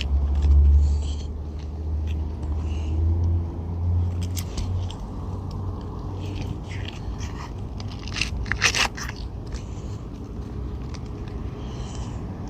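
Asphalt shingle scraping and crunching as a replacement shingle is forced up under the course above, a tight fit because the roof has two layers of shingles. There is a cluster of sharper scrapes about eight seconds in, and a low rumble through the first five seconds.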